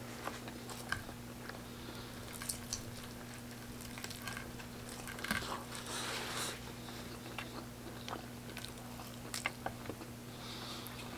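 Close-up chewing and biting of fried chicken, with irregular crunches and wet mouth clicks. A steady low hum runs underneath.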